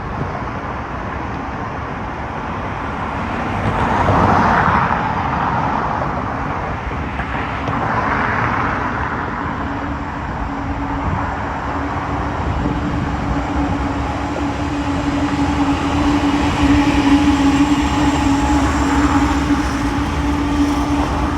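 Union Pacific westbound intermodal freight train rolling past, a continuous rumble and rattle of wheels and cars. The noise swells twice, about four and eight seconds in, and a steady low tone builds from about ten seconds in.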